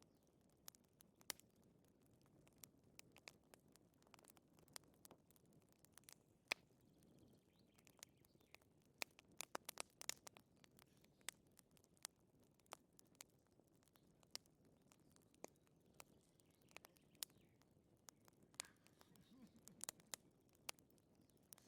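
Wood fire crackling quietly, with scattered irregular pops and snaps over a soft low rumble.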